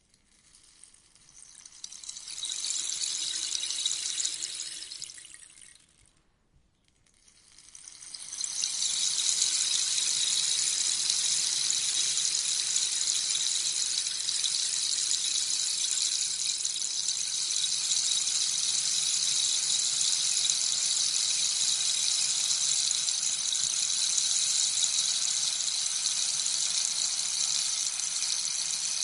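Rainstick being tipped, its beads pattering down inside like rain. One short pour swells and fades away about six seconds in, then a second pour builds and runs on long and steady.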